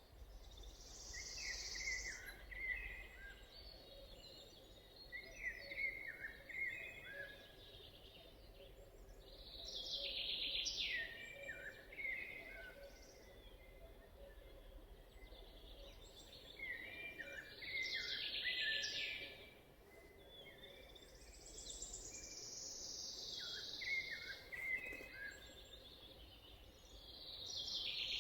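Forest birdsong: a songbird repeats a short, high song phrase about every eight seconds, with softer chirps from other birds between, over a faint steady background.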